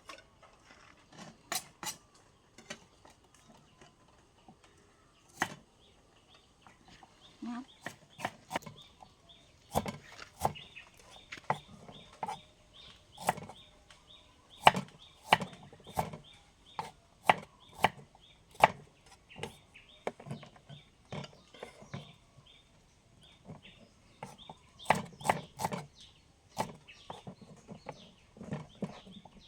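Knife chopping on a wooden cutting board: irregular strokes, with quicker runs of several chops in a row about a third of the way in and again near the end.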